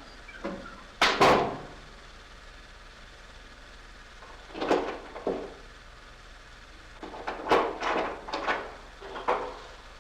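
A series of knocks and bangs, like doors or heavy objects being handled: a loud pair about a second in, two more in the middle, and a quick cluster near the end.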